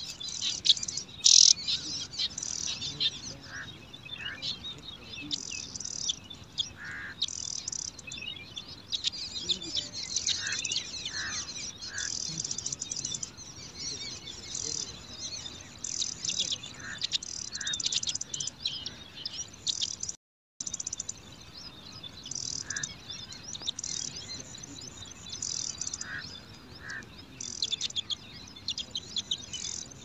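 Brown prinia nestlings chirping at the nest: rapid clusters of thin, high-pitched chirps with a few lower short calls mixed in. The sound cuts out briefly about two-thirds of the way through.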